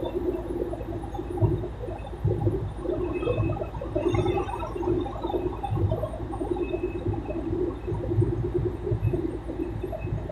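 Water splashing and churning against a boat's hull, irregular and continuous, over the steady low throb of a tugboat's diesel engine.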